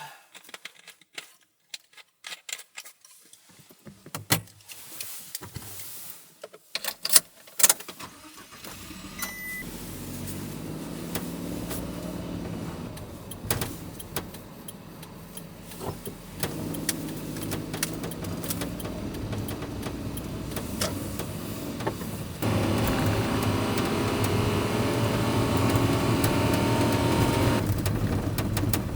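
Keys jangling and a run of clicks and knocks, then about eight seconds in a mini truck's engine starts and runs steadily. About 22 seconds in it becomes suddenly louder.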